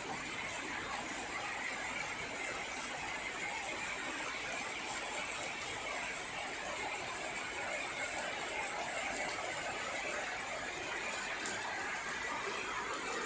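Steady, even hiss of rain, with a few faint ticks of drops landing nearby.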